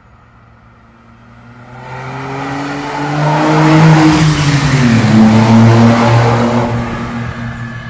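Smart Roadster's 700 cc turbocharged three-cylinder engine with a stainless-steel exhaust accelerating past. The engine note rises in pitch and grows louder as the car comes closer, drops in pitch as it goes by about five seconds in, then fades as it drives away.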